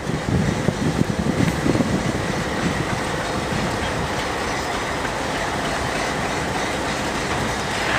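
A train running on the rails: a steady rumbling noise, with a few uneven low knocks in the first couple of seconds.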